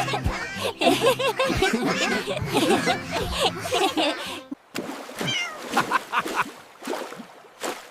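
Cartoon cats meowing, many short overlapping meows over light background music for the first half, then fewer, scattered meows with some clicks.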